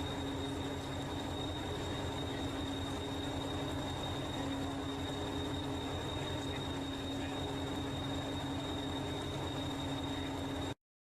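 Steady running hum of a moving vehicle: a low rumble with a held mid tone and a thin high whine, even throughout, cutting off abruptly near the end.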